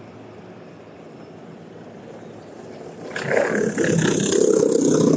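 A motor vehicle passing close by on a city street, its noise rising suddenly about three seconds in and staying loud to the end, over a steady hum of street traffic.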